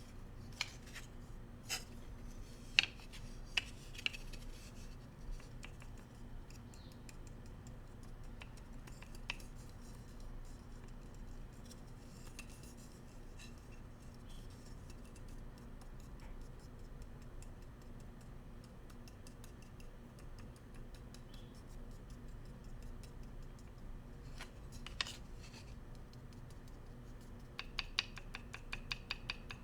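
Bamboo cooking utensils tapped and clicked against each other: several sharp taps in the first few seconds, a few scattered single taps, and a quick run of clicks near the end.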